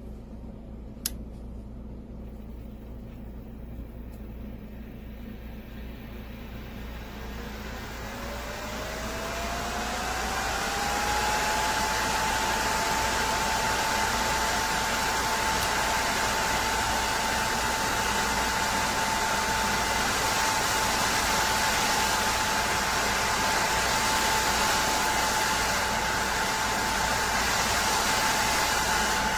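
A click, then a nail dust collector's electric fan spins up over a few seconds, its whine rising in pitch and then holding steady over a loud rush of air.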